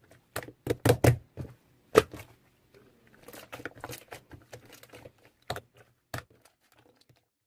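Slime being handled, giving irregular sharp clicks and crackling pops, loudest about one and two seconds in, over a faint steady hum.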